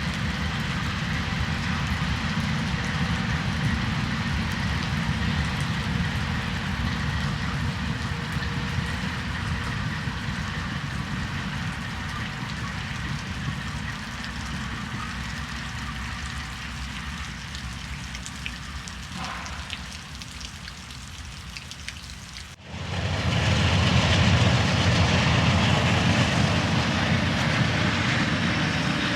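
Freight train rumbling past in the rain, slowly fading; about three-quarters of the way through it cuts off abruptly to a louder stretch of train noise.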